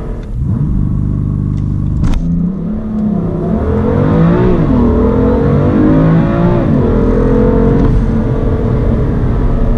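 BMW M3 engine on a full-throttle 0-100 km/h run. It holds low revs for about two seconds, then a knock marks the launch. The revs climb, drop sharply at two upshifts about 4.5 and 7 seconds in, and climb again after each.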